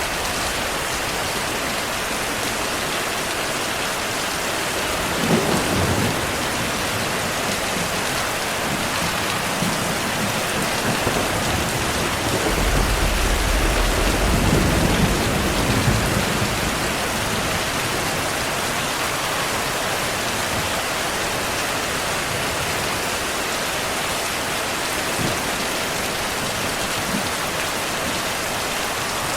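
Heavy, steady rainfall hissing throughout, with thunder: a short low rumble about five seconds in and a longer, louder rumble rolling from about halfway through.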